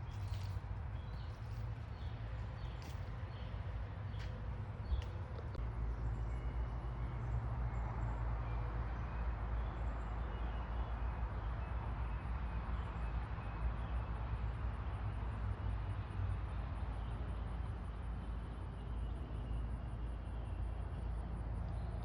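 Outdoor ambience: a steady low rumble that swells a little after about five seconds, with a few faint short chirps near the start.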